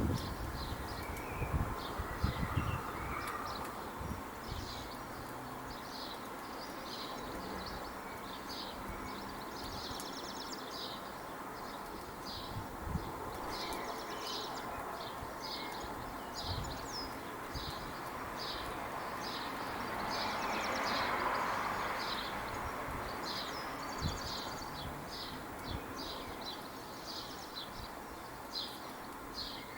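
Birds chirping in a garden: short high calls repeated a few times a second throughout, over a steady outdoor hiss. A broad rushing sound swells and fades about two-thirds of the way through.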